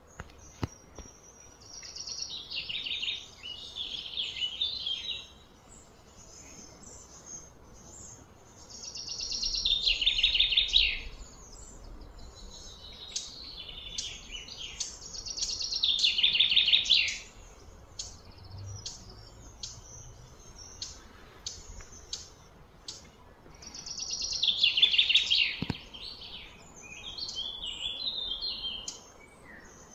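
A bird singing: a rapid trilled phrase of about two to three seconds that sweeps down in pitch, repeated about four times at intervals of several seconds, with short chirps in between.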